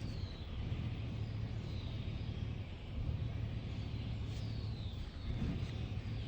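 Birds chirping faintly, short falling calls every second or two, over a steady low drone.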